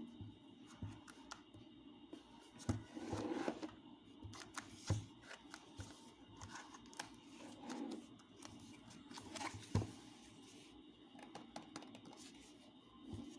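Hands handling packaging and small objects: scattered clicks, taps and short rustles, the sharpest about 3, 5 and 10 seconds in.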